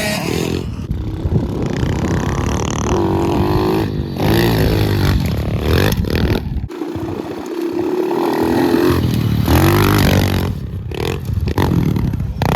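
Pit bike engine being ridden hard, revving up and easing off again and again as the rider works the throttle, with wind noise over it. The engine drops away briefly about two-thirds of the way through.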